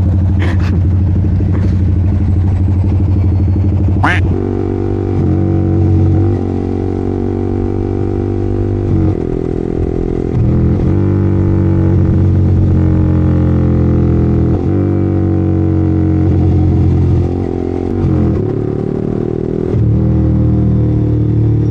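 Yamaha R15's single-cylinder engine under way, its pitch climbing as the bike accelerates and dropping at each gear change, several times through the ride. A few sharp clicks sound in the first four seconds.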